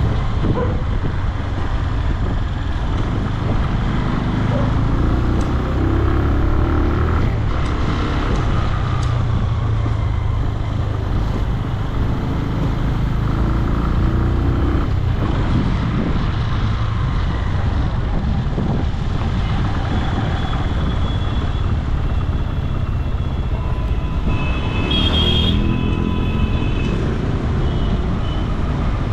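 Benelli 150i motorcycle engine running under way through city traffic, its revs rising and falling over steady road and wind noise. A brief high-pitched tone sounds near the end.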